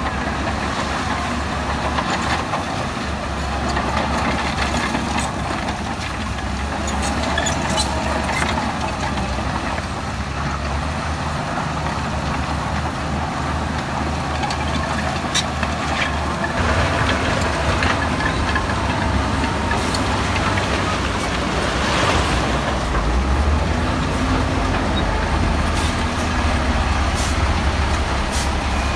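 Heavy diesel earthmoving machinery running steadily, with scattered metallic clanks and knocks. The low drone grows stronger about halfway through, and a louder hissing swell comes about three-quarters of the way through.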